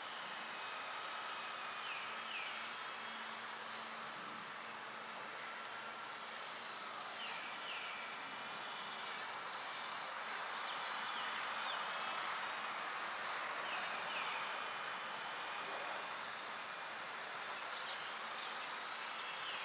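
Insects, cricket-like, chirping in a steady pulsing rhythm, a little over one pulse a second, over the faint steady whine of a small electric RC helicopter hovering.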